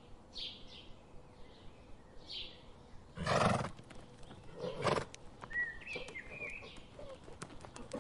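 Horses calling: two loud, rough outbursts about three and a half and five seconds in, with fainter high chirps in between.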